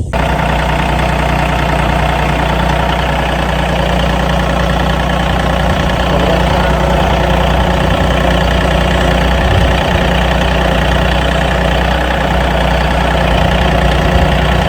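John Deere farm tractor's diesel engine running steadily under way, loud and even throughout.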